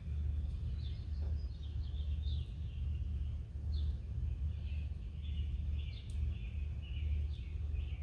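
Small backyard birds chirping, short scattered chirps with a busier chattering stretch in the middle, over a steady low rumble.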